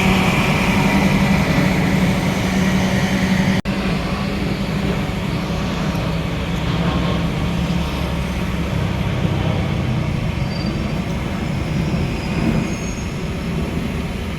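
Steady rumble and hum of a passenger train carriage, heard from inside the coach, with a brief dropout about three and a half seconds in, after which the hiss is softer.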